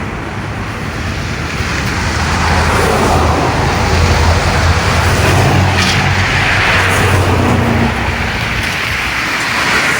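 Road traffic: a motor vehicle passes by, its engine hum and tyre noise building to loudest about four to seven seconds in, then fading.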